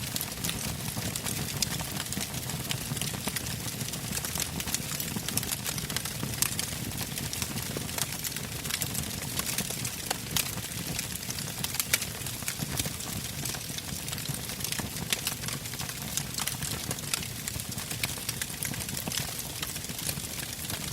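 Wood campfire burning, its logs crackling with many small irregular pops over a steady low rush of the flames.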